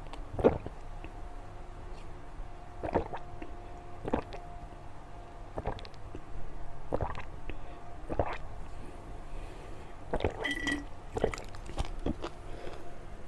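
Wet, squishy mouth sounds of someone eating soft candy, with short smacks about every second or so.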